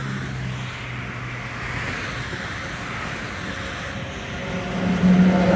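Electric freight locomotive hauling a container train, approaching. A steady rumble grows louder over the last second, with a steady hum coming in as it nears.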